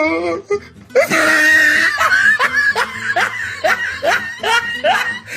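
Laughter: a rapid run of short 'ha' bursts, each rising in pitch, about three a second, starting about a second in.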